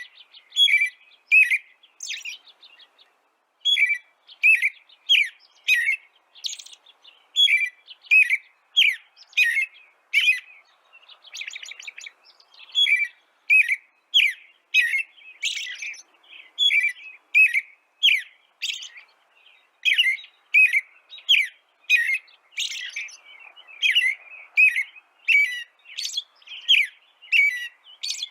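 A bird chirping over and over, about two short chirps a second, with a brief rapid trill about twelve seconds in.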